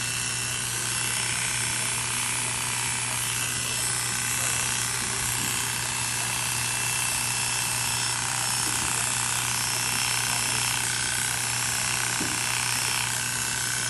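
Electric grooming clippers buzzing steadily with a constant hum, running without a break.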